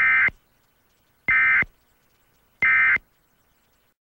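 Emergency Alert System end-of-message signal: three short bursts of SAME digital data tones, about 1.3 seconds apart, marking the end of the alert.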